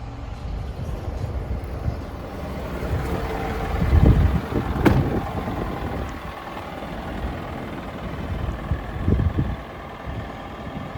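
Engine of a Scania R410 LNG truck, running on liquefied natural gas, with a steady low rumble. It swells louder about four seconds in and again near nine seconds, and a single sharp click comes about five seconds in.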